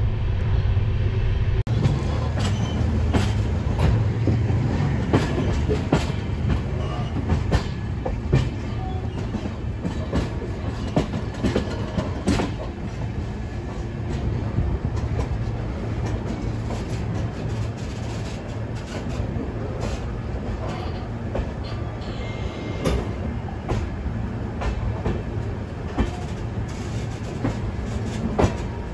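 Rajdhani Express passenger coaches rolling along the track: a steady low rumble of wheels with irregular clicks and clacks over rail joints and points as the train arrives at the station.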